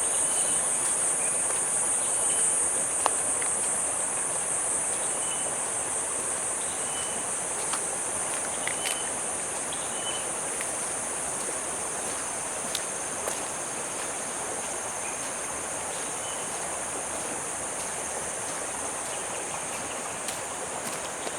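Chorus of insects, crickets or similar, keeping up one continuous high-pitched shrill over a steady background hiss, with a few faint short chirps scattered through.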